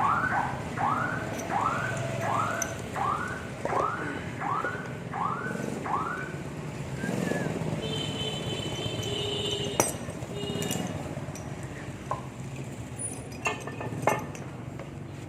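A run of about nine short squeaks, two a second, then a few sharp metal clinks as parts of a submersible pump are worked on during disassembly.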